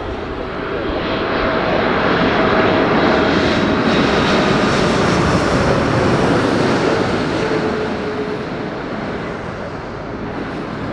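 Boeing 747-8 freighter's four GEnx turbofans passing close by on final approach. The engine noise swells over about two seconds and stays loud for several seconds, with a whining tone that slides down in pitch, then fades.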